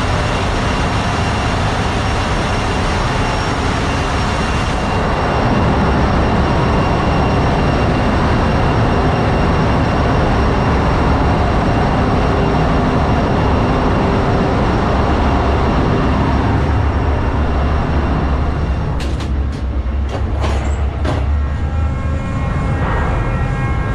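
Ship's engine-room machinery running: a loud, steady mechanical din with a constant low hum and several high steady whines. A few sharp metallic knocks come about nineteen to twenty-one seconds in, after which the din is a little lower and the high whines stand out more.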